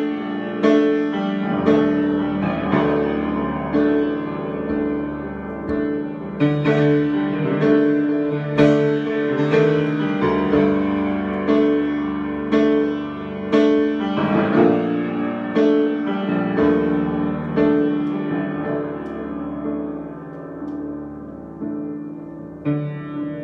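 Improvised keyboard music: struck piano-like notes, about one or two a second, over steady low sustained tones.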